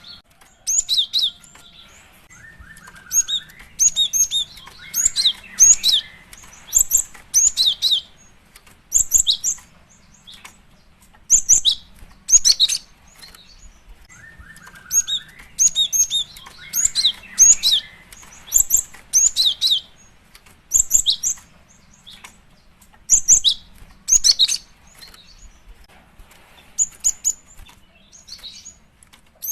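Female cinereous tit (gelatik batu) calling: clusters of sharp, high chirps in quick series, with short pauses between them. The same sequence comes round again about halfway through, as in a looped lure recording.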